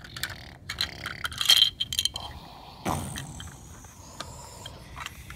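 Plastic Duplo bricks clattering and clicking as they are scooped and loaded into a toy dump truck. It comes as a quick run of knocks and scrapes, busiest and loudest in the first two seconds.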